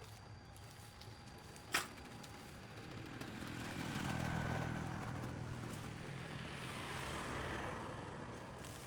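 A road vehicle passing by: its sound swells for a few seconds and then fades away. A single sharp click comes just before it, about two seconds in.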